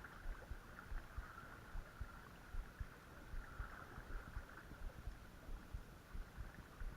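Creek water running steadily in the background, with scattered low bumps on the microphone.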